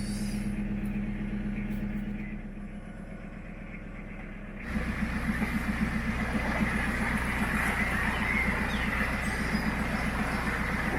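Narrowboat's diesel engine running at low revs with a steady low chug. A little under halfway through it becomes suddenly louder, with a clear beat of about four pulses a second.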